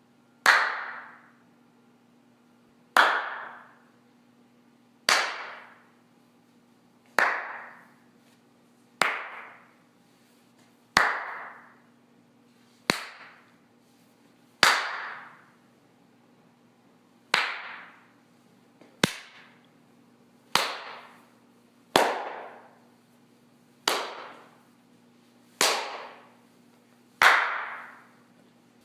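Single hand claps, one about every two seconds, each followed by a long echoing decay, as in a large reverberant space.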